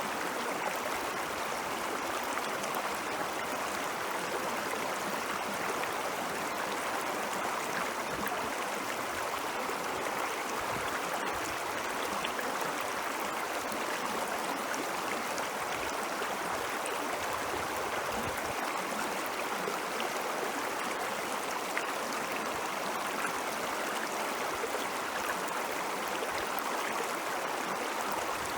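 Meltwater stream flowing in a steady, even rush, with occasional low surges.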